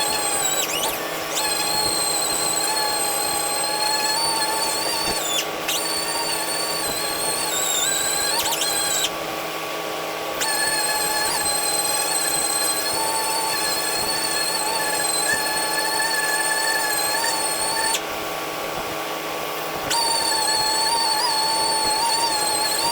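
Power sander running steadily with a high whine, sanding cured 2K primer smooth before paint. The whine dips briefly twice, about nine and about eighteen seconds in.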